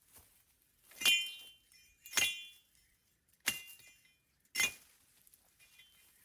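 Hard objects knocked together: four sharp clinks, each with a short ring, spaced about a second apart.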